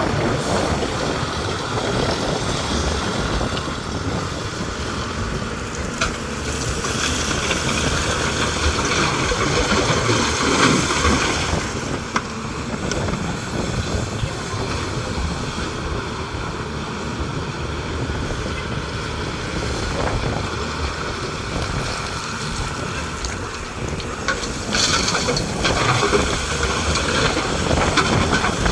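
Heavy hydraulic excavator running steadily with its diesel engine, with a couple of sharp knocks about six and twelve seconds in and a louder stretch near the end.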